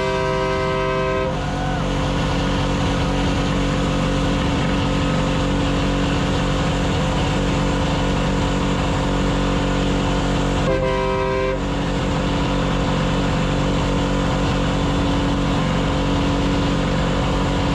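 Loud steady vehicle engine noise with two horn blasts: one about a second long right at the start, and a shorter one about eleven seconds in.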